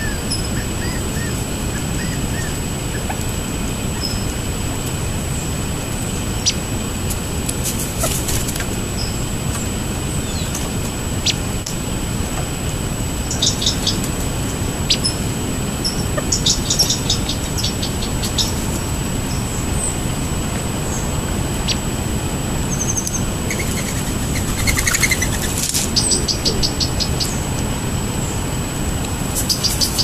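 Wild birds chirping and calling, with quick runs of rapid repeated notes about halfway through and again near the end, over a steady low rumble.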